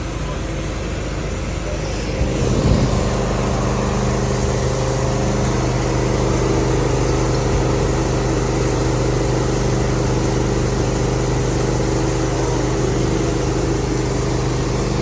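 Engines running steadily at a constant speed. About two and a half seconds in, another engine starts with a brief surge and keeps running with a deeper steady tone.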